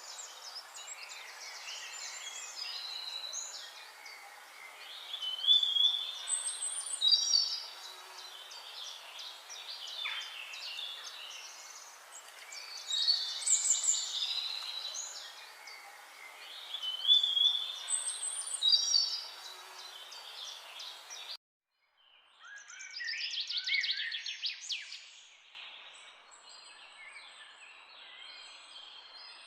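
Songbirds singing, with loud chirping phrases recurring every few seconds over a faint background hiss. The sound cuts out abruptly about two-thirds through, then more birdsong follows.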